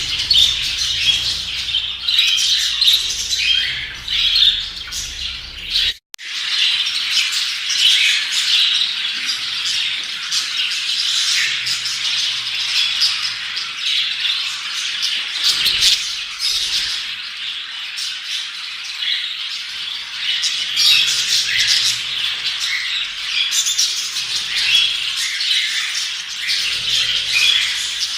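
A flock of budgerigars chattering and chirping continuously, with warbles and squawks mixed in. The chatter breaks off for an instant about six seconds in.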